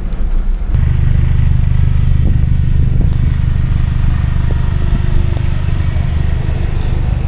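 4WD vehicle driving along a snow-covered track: a steady low engine and tyre drone that grows louder about a second in.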